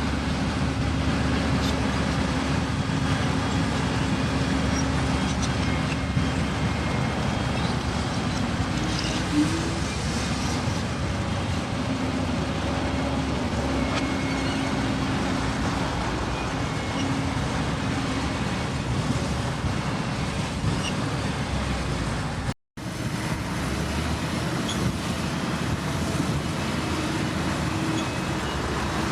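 Heavy earthmoving machinery engines running steadily at a work site. The sound cuts out for an instant about three-quarters of the way through, then carries on.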